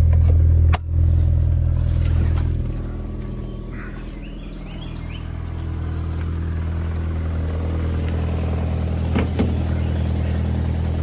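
2010 Mazda 3's 2.0-litre four-cylinder idling steadily soon after a cold start, an engine the owner says runs a bit lumpy when cold. A sharp click sounds about a second in, and two light knocks come near the end.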